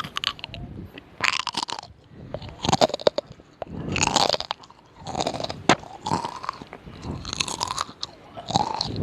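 Repeated crunching, in short bursts about once a second.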